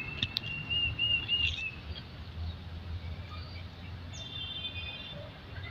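Small birds calling in the background: a thin, high, wavering call in the first two seconds and another short high call about four seconds in, over a steady low rumble.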